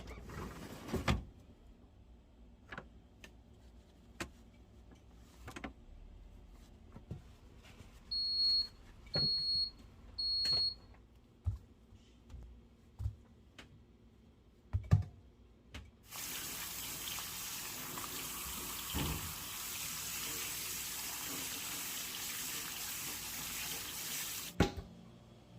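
Kitchen sounds: scattered knocks and clatter, then three short electronic beeps about a second apart. After that, a water tap runs steadily into a sink for about eight seconds and cuts off suddenly.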